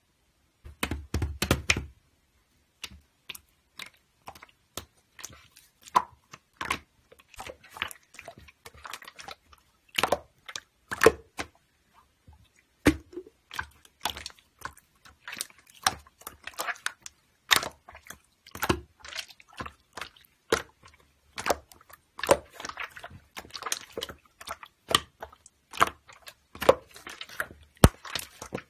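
A close, irregular series of sharp clicks and taps, some in quick clusters, with soft hiss between them.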